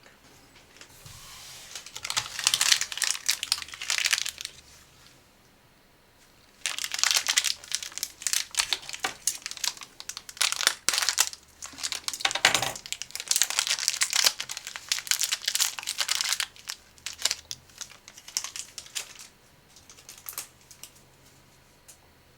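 Crinkling of plastic snack packaging as it is handled and opened: a few seconds of crackling, a pause, then a longer stretch of crackling that thins out near the end.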